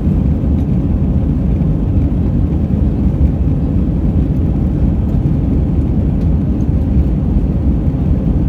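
Airbus A320 jet engines and airflow heard from inside the cabin during takeoff: a loud, steady, low rumble.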